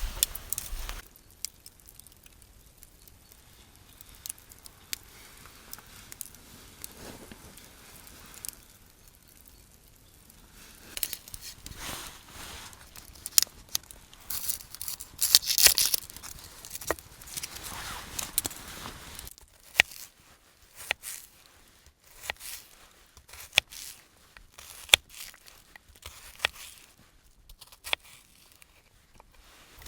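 Rustling and crinkling handling noises in irregular bursts, followed by many scattered sharp clicks and ticks over the last third.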